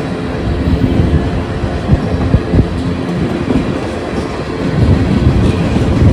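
A train rolling past close by, its wheels clattering and thumping irregularly over the rails.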